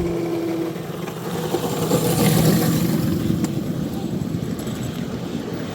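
Miniature railroad train running: a small electric locomotive hauling heavily loaded cars, wheels rumbling on the rails. The rumble swells about two seconds in, then slowly fades.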